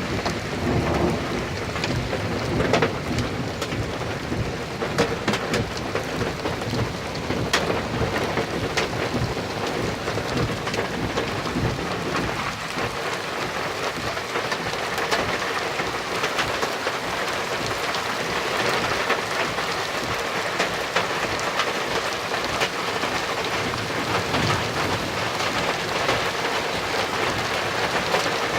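Heavy rain pouring steadily onto a hard surface, with many sharp taps of drops striking. Low thunder rumbles through the first few seconds.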